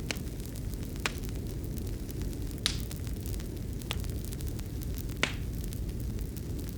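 Fire crackling in a fireplace: a steady low rumble with about five sharp pops at uneven intervals, the loudest a little before the middle and near the three-quarter mark.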